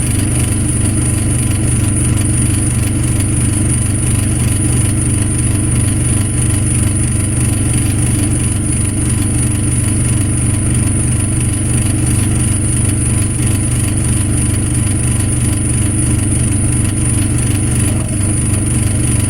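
Truck engine idling steadily with a low, even rumble, and a constant high-pitched whine above it.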